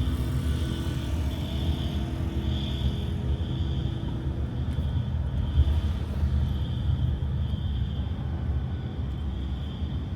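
A steady low rumble, with a high buzzing tone above it that swells and fades about once a second.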